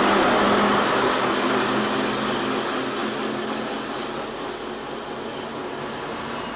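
Electric-locomotive-hauled passenger train passing and running away, its rumble and a low hum fading steadily as it recedes.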